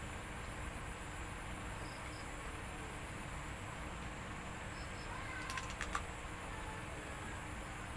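A person eating boiled crab: a short cluster of sharp cracks and clicks about five and a half seconds in, over a steady background hiss.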